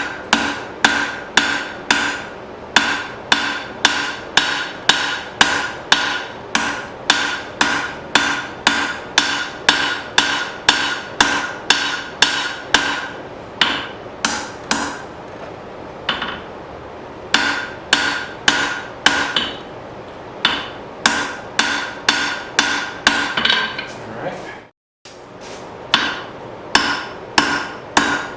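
Blacksmith's hammer striking hot 1/2 inch round steel stock on an anvil, about two blows a second, each with a bright ringing tone, as the bar is drawn out into a long taper. The hammering stops briefly a few times and cuts out to silence for a moment near the end.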